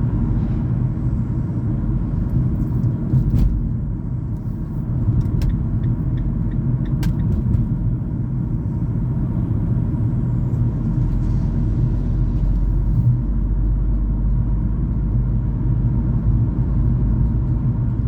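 A car driving, with a steady low engine and road rumble and a few faint clicks.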